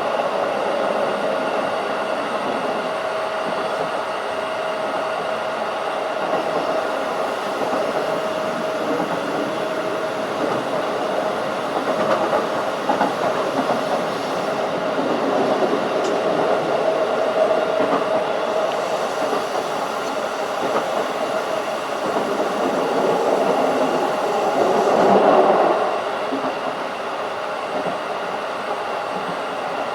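Keikyu 1500 series field-chopper-controlled electric train running at speed: steady wheel-on-rail and traction noise with some clickety-clack of rail joints, a steady tone in the first third, and a louder swell about 25 seconds in that then drops back.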